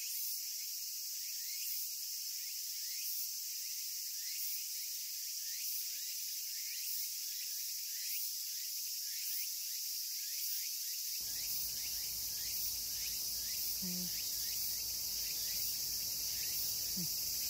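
Steady, high-pitched insect chorus with short falling chirps repeating about once a second. About two-thirds of the way through, a low background rumble joins it.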